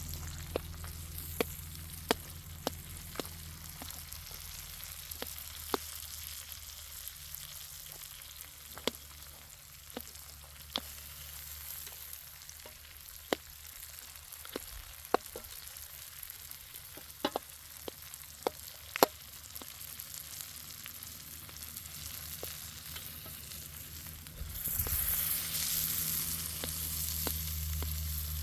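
Food sizzling as it fries in a pan, with scattered sharp pops. Near the end the sizzle turns suddenly louder and brighter.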